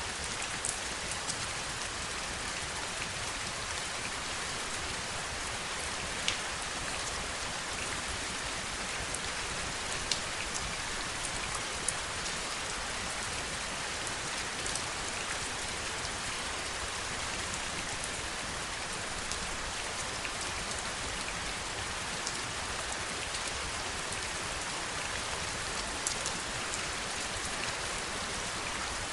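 Steady heavy rainfall, an even hiss of rain with occasional sharper drop ticks scattered through it.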